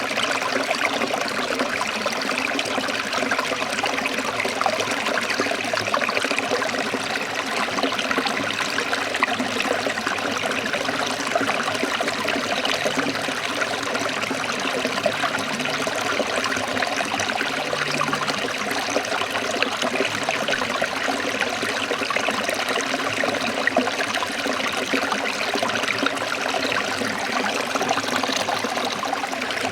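Water of a forest stream trickling and splashing over rocks, a steady, even rushing with fine bubbling detail.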